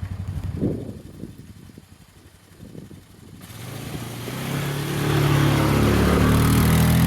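A vehicle engine running and rising in pitch as it speeds up, with loud road and wind noise, coming in suddenly a little over halfway through after a quieter stretch.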